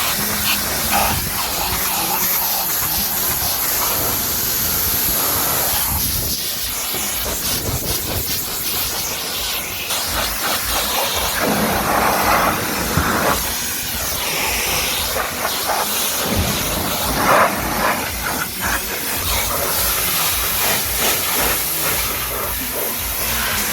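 Pressure-washer jet spraying water onto a car: a steady, loud hiss whose character shifts as the spray moves over the surfaces.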